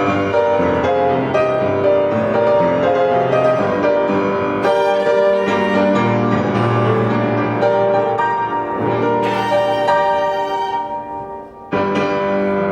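Live performance of a student composition with piano and bowed strings, in shifting held chords and melody lines. About 11 s in, the music fades. Just before the end, a different sound cuts in abruptly.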